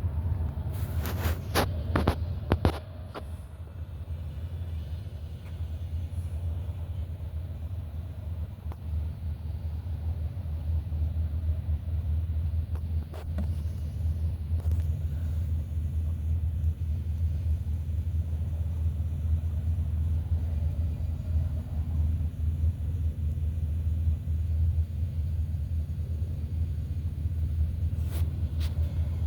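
A 2007 Blue Bird All American school bus running with a steady low rumble, with a few sharp clicks or rattles in the first few seconds and a couple more near the end.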